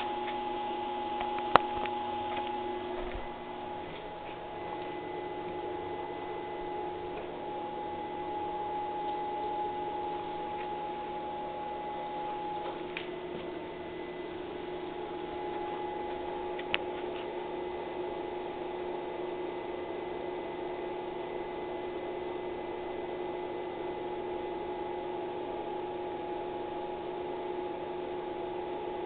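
GM 5.3L LH6 V8 running steadily on an engine stand with a light, regular ticking, which the owner takes for a lifter tick rather than a rod knock. Two sharp clicks stand out, one about a second and a half in and one about halfway through.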